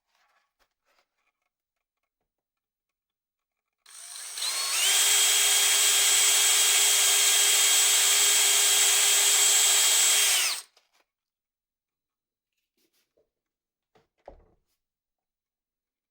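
Handheld electric power tool, such as a drill, spinning up with a short rising whine and then running at steady speed for about six seconds before cutting off. A single light knock follows a few seconds later.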